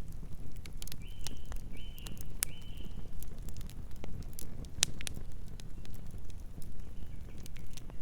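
Campfire crackling and popping with irregular sharp snaps over a steady low rumble. Three short high calls come in a row about a second in, with two fainter ones near the end.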